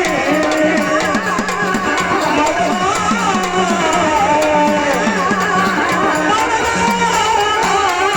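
Marathi gavlan folk song: a woman's voice singing a gliding, ornamented melody with instrumental accompaniment and steady hand-drum beats.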